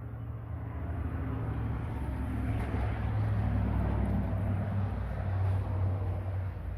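Kioti compact tractor's diesel engine running at a steady idle, a little louder through the middle.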